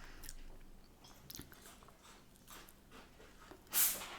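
Close-miked chewing and biting of fish and chips, faint wet mouth clicks, with one louder short noise near the end.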